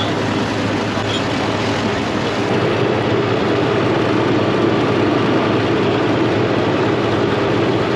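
Continental six-cylinder gasoline engine of a 1945 Oliver Cletrac AG6 crawler tractor running steadily; a smooth-sounding engine.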